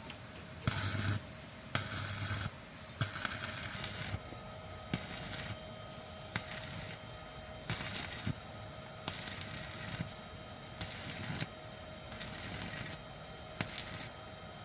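Repeated short bursts of clattering, about ten in all and roughly one a second, each lasting about half a second, over a faint steady hum.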